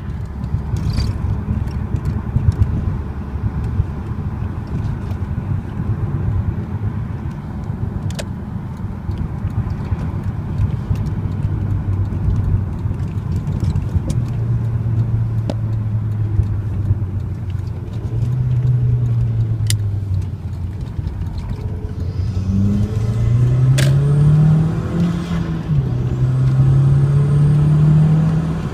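Audi TT 225's 1.8-litre turbocharged four-cylinder running through its factory exhaust while driving, over a low road rumble. About two-thirds in, the engine note climbs in pitch under acceleration, drops suddenly at a gear change, then climbs again.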